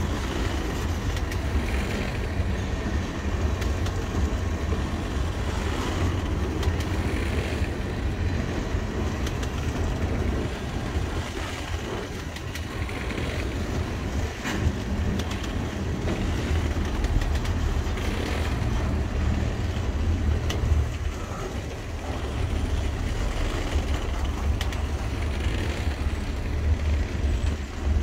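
Freight cars (tank cars and covered hoppers) rolling slowly past on the rails: a steady low rumble of wheels on track with a few scattered knocks, as the train slows toward a stop.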